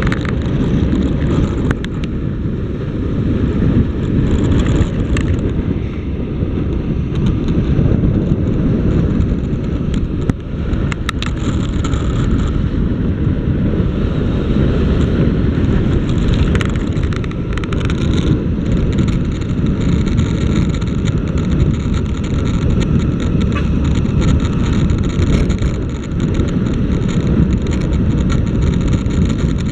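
Riding on a motorcycle: steady rumbling wind on the microphone, with road and engine noise underneath.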